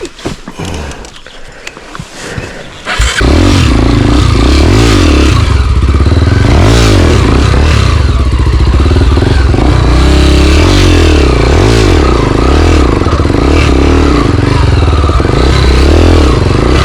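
Single-cylinder four-stroke trail motorcycle engine, close and loud, coming in suddenly about three seconds in. It then runs steadily, its pitch rising and falling with the throttle.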